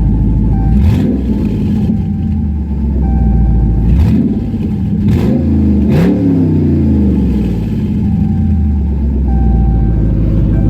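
Car engine roaring through open QTP electronic exhaust cutouts, revved several times in quick blips about 1, 4, 5 and 6 seconds in, the last one falling back slowly to a steady idle.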